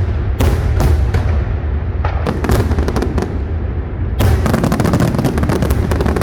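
A fireworks display: shells bursting one after another over a continuous low rumble, with a dense rapid volley of cracks about four seconds in.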